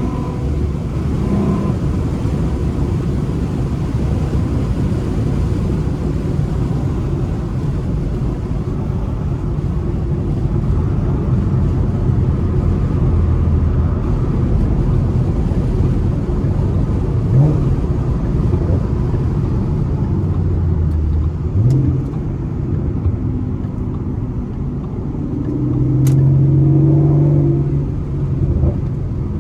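2014 Ford Mustang V6's 3.7-litre engine, fitted with shorty headers and a Roush axle-back exhaust, running as the car drives, a steady low drone mixed with road noise. Two quick rising revs come about halfway through, and the engine note swells louder and holds steady near the end.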